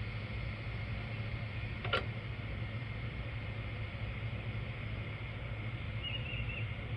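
A steady low hum with one sharp click about two seconds in, and a brief high chirp near the end.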